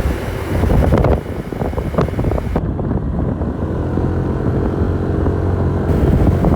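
A vehicle engine running steadily on the move, with a low hum and wind noise on the microphone.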